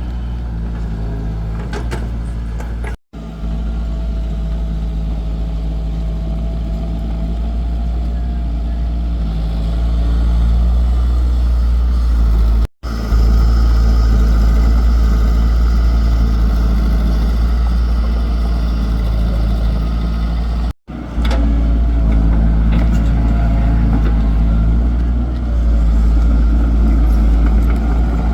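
Excavator's diesel engine running steadily with a deep, even hum. It cuts out abruptly for a split second three times.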